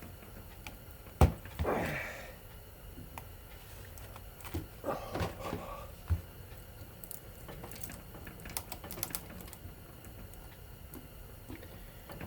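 A screwdriver prying at the tightly wound, varnished copper windings of a ceiling fan motor: a sharp metal knock about a second in with a short scrape after it, then scattered clicks and scrapes of metal on wire.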